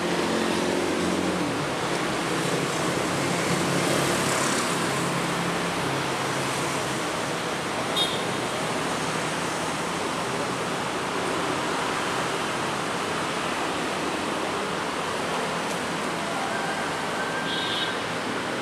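Diesel locomotive hauling a container freight train on its approach: a steady noise of the train, with a low engine hum in the first couple of seconds.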